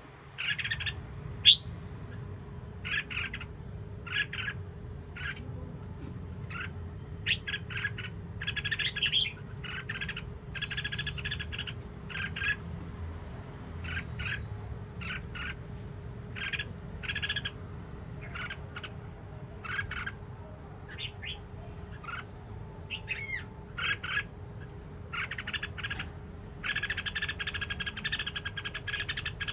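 A small songbird giving short, sharp "trít trít" chirps again and again, broken by a few longer rapid chattering runs; the longest run comes near the end. A steady low hum sits underneath.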